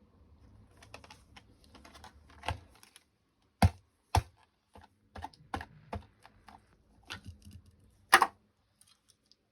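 Plastic blister packaging and its cardboard backing being handled and pulled open: irregular crackling and clicking with a few sharp snaps, the loudest about four seconds in and again near the end.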